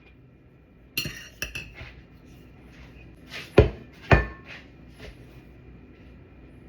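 Cutlery and dishes clinking: a quick cluster of ringing metal-on-dish clinks about a second in, two louder knocks a little past halfway, then a few lighter taps.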